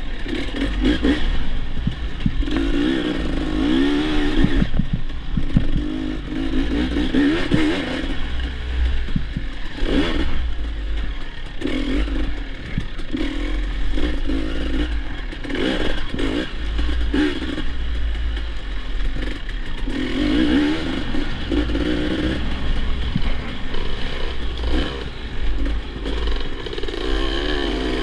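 Dirt bike engine being ridden off-road, its pitch rising and falling over and over as the throttle is opened and closed, with a few short knocks along the way.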